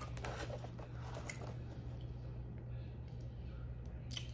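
Quiet chewing of a mouthful of Philly cheesesteak sandwich, with a few small wet mouth clicks, over a steady low hum.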